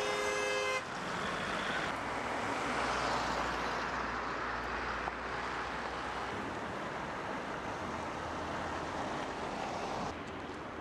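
Steady road and engine noise of a moving vehicle. A brief pitched, horn-like tone sounds in the first second, and the noise shifts abruptly about a second in and again near the end.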